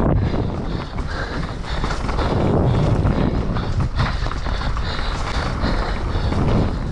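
Wind buffeting the helmet or bike camera's microphone while a mountain bike rolls over a wet, rough trail, its frame and parts rattling with many small knocks over the bumps.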